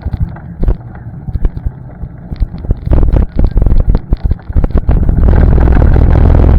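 ATV riding on a trail: a low engine rumble under frequent knocks and rattles, growing much louder and more continuous from about three seconds in.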